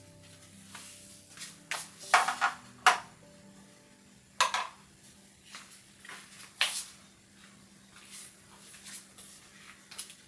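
A series of sharp knocks and clinks from hard objects being handled and set down, the loudest about two to three seconds in and again near the middle. Faint background music fades out early on.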